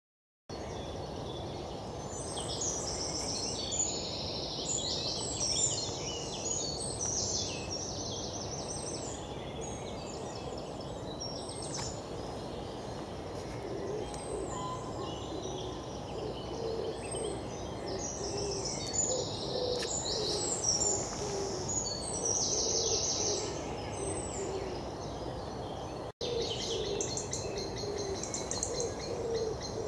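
Birds calling in woodland: short, high-pitched twittering and trilling calls repeated again and again over steady background noise, with a momentary break about 26 seconds in.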